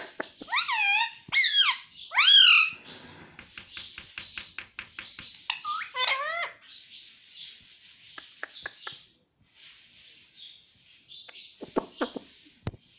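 Ringneck parrot calling: several loud squawks that waver up and down in pitch in the first few seconds and again around six seconds in, with a run of quick clicks between them and softer, hissy chatter later on.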